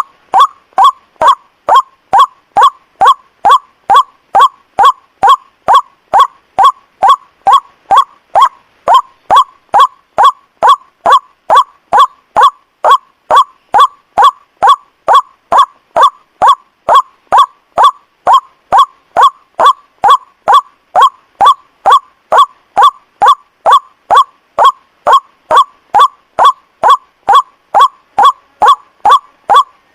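White-breasted waterhen lure call: short, loud, honking notes repeated evenly about twice a second without a break.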